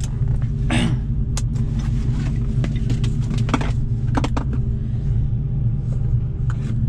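Saleen Mustang's V8 idling with a steady low rumble, heard from inside the cabin, with a few light clicks and knocks over it.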